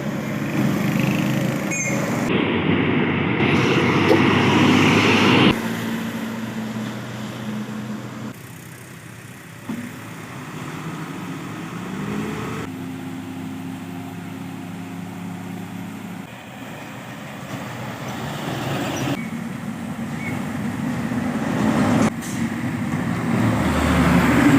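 Heavy diesel truck engines labouring up a steep climb, heard in several short clips cut together. About ten seconds in, one engine's pitch rises as it revs.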